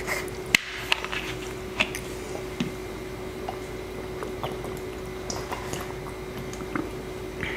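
Close-miked eating: mouth clicks and smacks from chewing Korean black bean noodles (jjajangmyeon), several sharp ones in the first three seconds and fainter ones after. A faint steady hum runs underneath.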